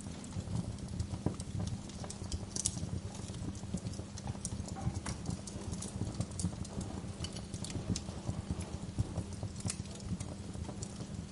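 Wood fire crackling steadily: dense soft crackles, with a few sharper pops standing out, one about two and a half seconds in and another near the end.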